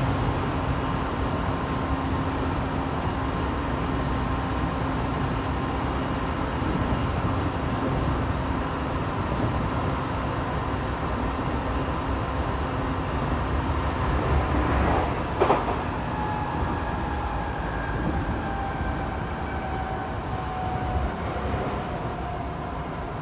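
Tokyo Metro 7000 series train with Hitachi IGBT inverter running at speed, heard inside the car. Steady wheel and running noise carries a constant inverter and motor whine. About fifteen seconds in there is a sharp click, and after it the motor tones fall slowly in pitch as the train begins to slow for the next station.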